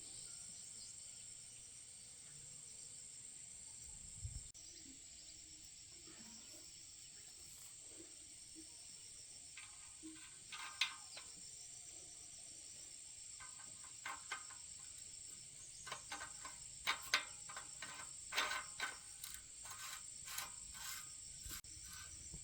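Scattered light clicks and taps, more frequent in the second half, over a steady high-pitched chirring of crickets.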